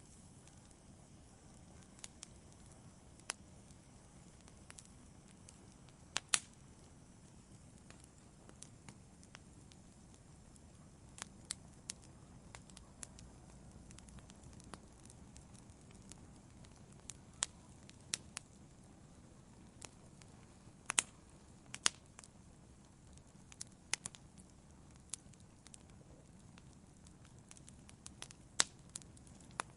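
Wood fire in a fireplace crackling: scattered sharp pops and snaps at irregular intervals over a low, steady hiss of the burning fire.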